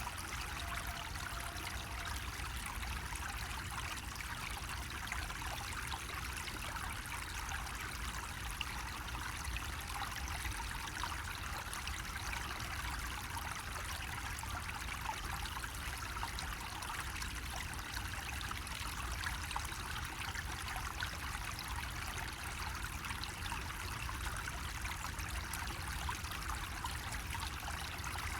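Water running steadily from a bamboo faucet, a continuous trickling splash that stays even throughout.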